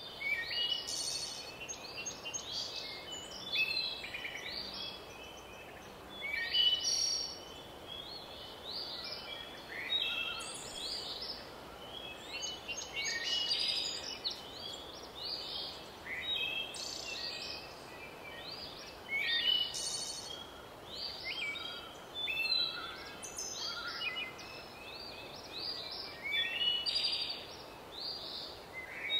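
Songbirds chirping and singing without pause: many short, high calls and trills overlapping one another over a faint steady hiss.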